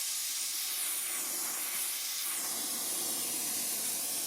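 Gas welding torch flame hissing steadily while it heats and joins thin steel wire to a steel rod, its tone sweeping briefly about a second or two in.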